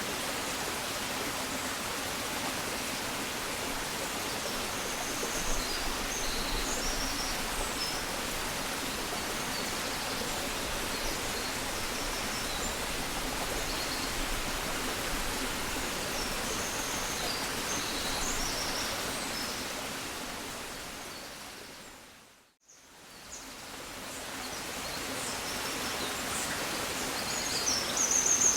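Countryside dawn ambience: a steady rushing hiss with small birds chirping here and there. About three quarters of the way through it fades out to near silence and fades back in, and the birdsong grows busier near the end.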